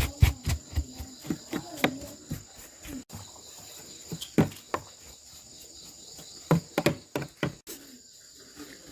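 Scattered knocks and clicks of objects being handled, bunched in the first two seconds and again about four and a half and six to seven seconds in, over a steady high chirring of insects.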